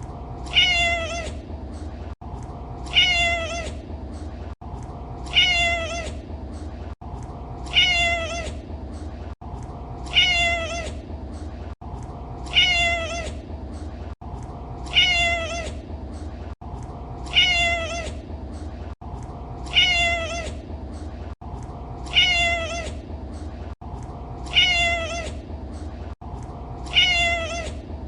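A domestic cat meowing: the same short, falling meow repeats about every two and a half seconds, about a dozen times, as an even loop. A steady low hum runs underneath.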